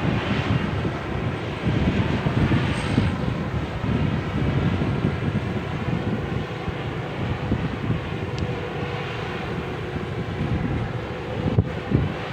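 Thai Siang Yon rice combine harvester running steadily while harvesting: its large Hino diesel engine and threshing machinery make a continuous mechanical noise.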